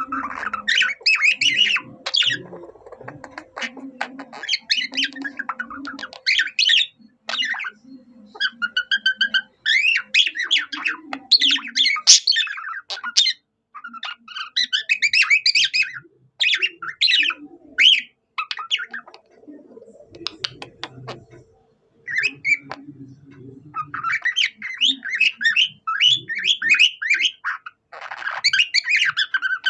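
A budgerigar singing in long runs of fast chattering warble and squawks, broken by short pauses, its song copying a cockatiel's.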